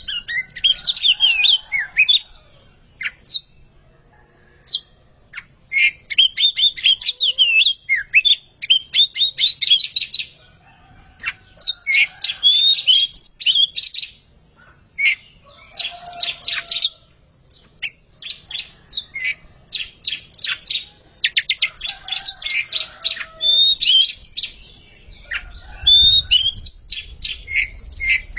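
A pair of Oriental magpie-robins (kacer) singing against each other. Bouts of varied whistles, slurred notes and rapid chattering last a second to a few seconds, with short pauses between them.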